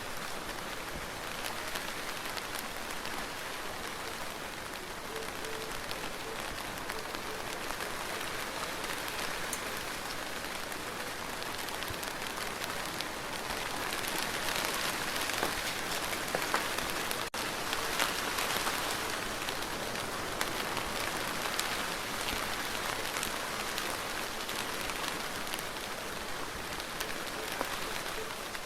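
Steady rain falling on a surface, many fine drops pattering together, growing a little heavier about halfway through.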